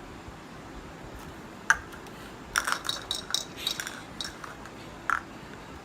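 Irregular sharp clicks and clinks of small hard objects: one sharp click about two seconds in, then a quick run of taps, with a last click near the end.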